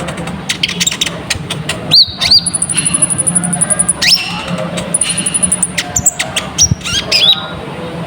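Konin (kolibri ninja) sunbird singing fast and busily: sharp high chirps, quick upward-sweeping whistles and, twice, a very rapid high trill. This is the full 'ngobra' lure song. A steady low hum runs underneath.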